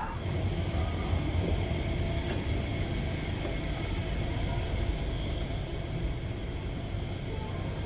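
Steady low mechanical rumble with faint, steady whining tones above it, like large ventilation or machinery running.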